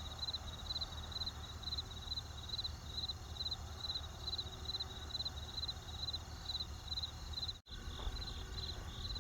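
Crickets chirping in a steady rhythm of about two short high chirps a second, over the low, even noise of a campfire. The whole sound cuts out for an instant about three-quarters of the way through, then carries on.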